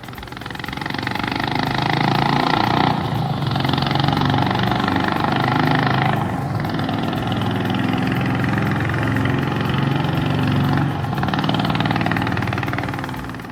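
Honda H'ness CB350's air-cooled single-cylinder engine running under throttle through its exhaust. It swells up over the first couple of seconds, dips briefly three times, at about 3, 6 and 11 seconds in, and tails off at the end.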